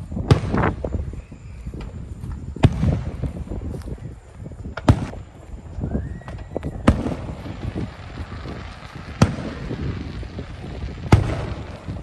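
Fireworks going off: six loud bangs about two seconds apart, each followed by a rumbling tail.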